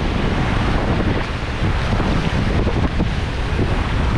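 Rushing whitewater around a paddled raft, a steady loud churn of water, with strong wind buffeting the microphone.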